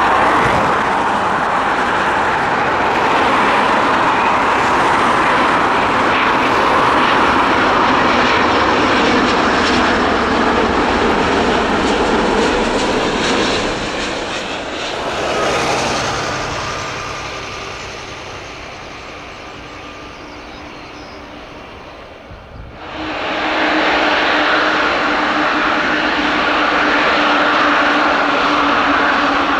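Airbus A350-900 jet engines (Rolls-Royce Trent XWB) heard as loud, steady jet noise that swells once and then fades away. Just past two-thirds of the way through, loud engine noise cuts back in abruptly with a steady hum.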